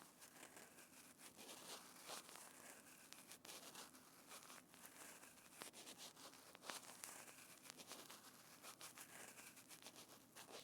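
Faint, close-miked ASMR trigger sounds on a binaural microphone: continuous soft crackling and rustling, dotted with many small sharp clicks, stopping suddenly at the end.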